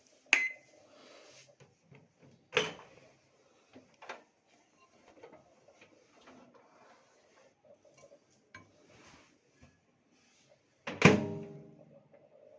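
Knocks and clatters from handling a Godrej microwave oven and its dish, with a sharp click and short beep at the start and the loudest clunk, ringing briefly, about eleven seconds in.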